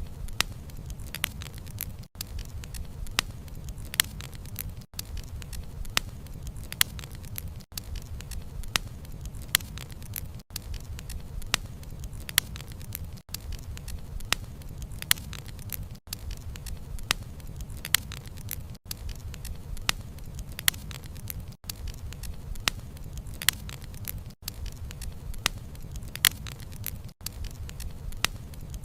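Wood fire burning: frequent irregular crackles and sharp pops of burning wood over a low, steady rumble of flames. The sound briefly drops out about every three seconds.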